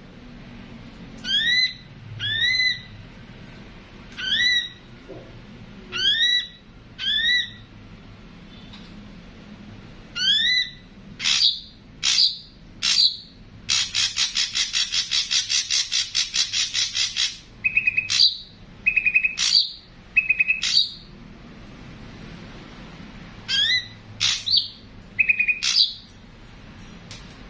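Ashy drongo calling: a series of short, upward-sweeping whistled notes, then about halfway through a harsh, rapid chattering rattle lasting about three seconds, followed by several short, flat buzzy notes and more rising whistles.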